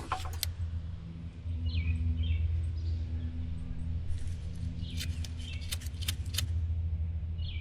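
A steady low hum with a few short bird chirps, and a cluster of sharp clicks a little past halfway.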